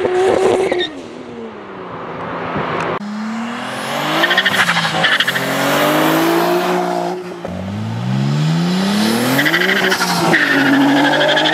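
A Toyota Supra's tyres squealing in a drift as its engine revs fall away; then, after a cut, a Nissan 300ZX Z32's twin-turbo VG30DETT V6 accelerating hard, its pitch climbing and dropping back at about three upshifts.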